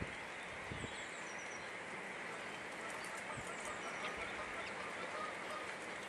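Steady background hiss with faint bird calls: a few short, high chirps about a second in and brief, thin notes later on.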